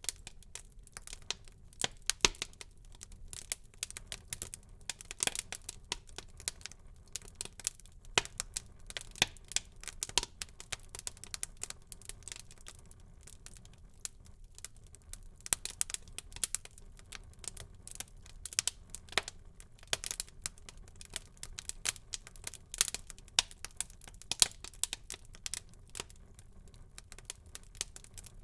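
Wood fire burning in a fireplace, crackling and popping in irregular sharp snaps over a low steady hiss.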